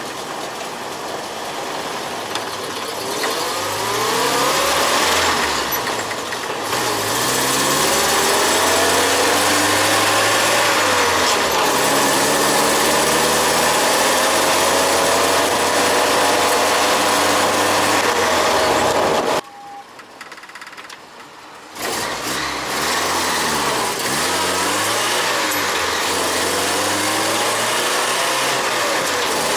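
UAZ 469's carburetted engine under full-throttle acceleration, its pitch climbing slowly in each gear and falling back at each shift, with wind and road noise over it. The sound drops away for about two seconds roughly two-thirds through, then the engine pulls again.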